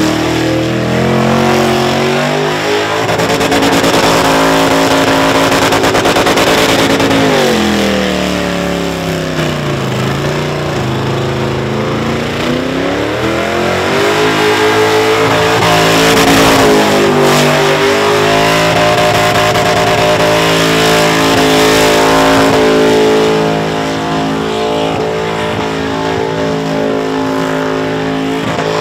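Holden VH Commodore burnout car's engine held at high revs while its rear tyres spin in a smoky burnout. The revs sag about a third of the way through, climb back, and then hold steady, easing slightly near the end.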